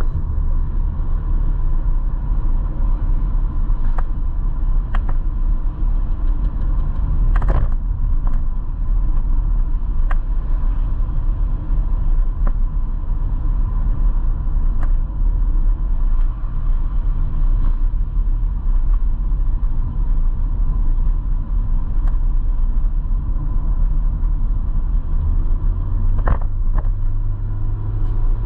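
Motorcycle running at road speed, its engine under a steady low rumble of wind on the microphone, with a few short clicks scattered through.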